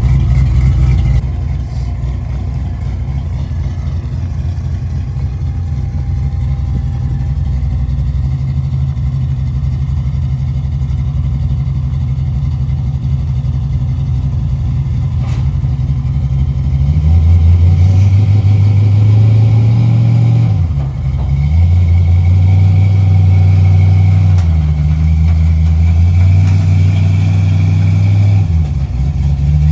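Motor vehicle engine running while driving, a steady low drone. In the second half it gets louder and the engine note changes several times, with short dips in between.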